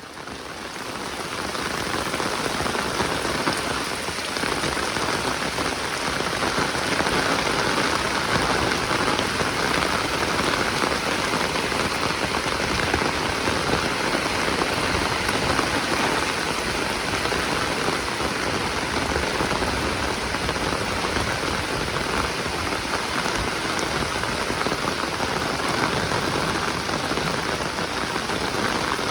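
Heavy rain falling steadily, a dense even hiss of drops on surfaces that fades in over the first couple of seconds.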